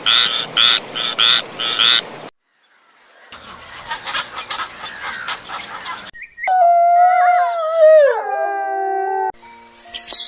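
Animal calls from separate clips. First a frog-like croaking in about seven quick, evenly spaced pulses. Later a long, loud call that wavers and slides down in pitch.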